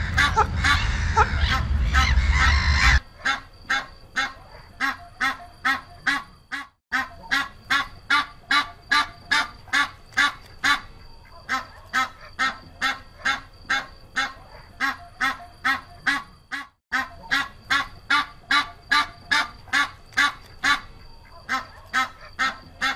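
Geese honking: a loud, crowded burst of calls over a low rumble for about three seconds, then a steady run of short honks, about two a second.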